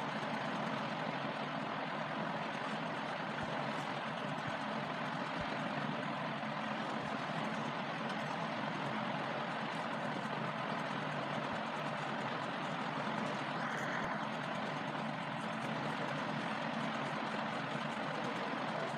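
A steady, even rumbling hiss like an idling engine or a running fan, unchanging throughout.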